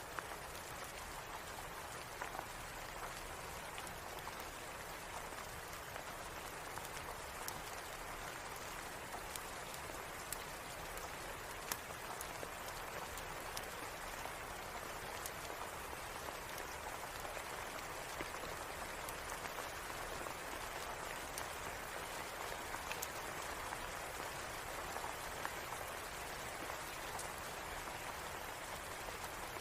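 Steady rain falling: an even hiss with scattered sharp ticks of drops.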